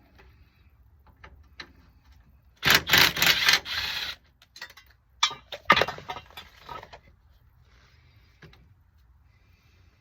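Metal hand tools and hardware clanking and rattling in two short, irregular spells, the first about three seconds in and the second a couple of seconds later.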